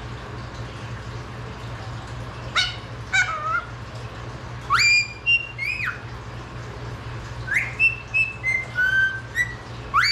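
Indian ringneck parakeet giving short whistled calls in several bouts a couple of seconds apart, each call swooping sharply up in pitch and then dropping, over a steady low hum.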